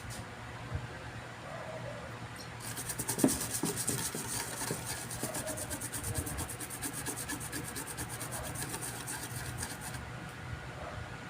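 Fast, even back-and-forth scraping strokes by hand on a circuit board, starting about two and a half seconds in and stopping near the end.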